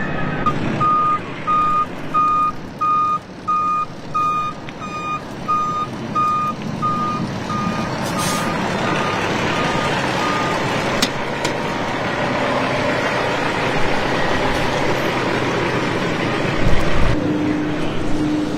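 A vehicle's reversing alarm beeping at a steady, even pace over steady engine and street noise, the beeps fading out about ten seconds in.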